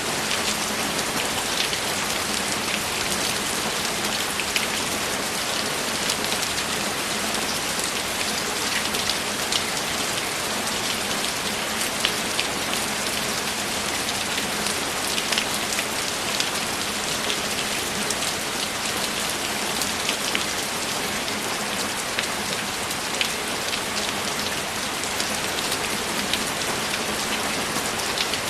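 Steady rain pattering on a surface, with many small drop ticks.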